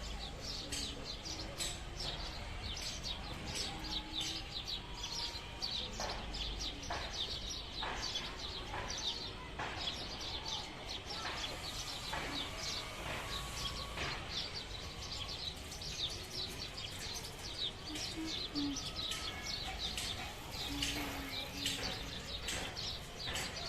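Many small birds chirping and twittering rapidly, their short calls overlapping without a break.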